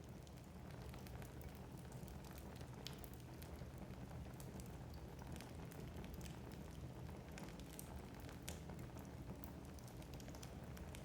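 Wood fire burning in a fireplace, with frequent small, irregular crackles and pops over a low, steady rumble of the flames.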